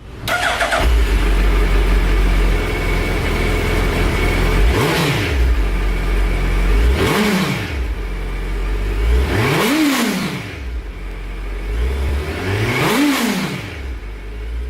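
Suzuki Hayabusa inline-four motorcycle engine idling and revved four times with quick throttle blips, each rising in pitch and falling back to idle.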